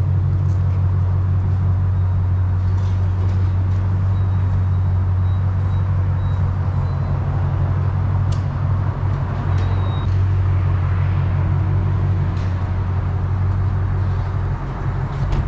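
A car engine idling steadily, heard as a constant low hum, with a couple of faint clicks over it.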